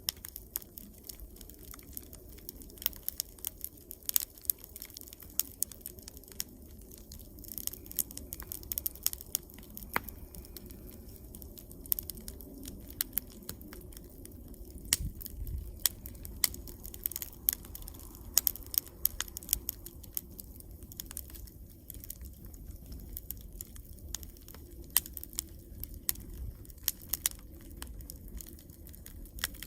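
Wood campfire crackling, with irregular sharp snaps and pops over a low steady rumble of the burning fire.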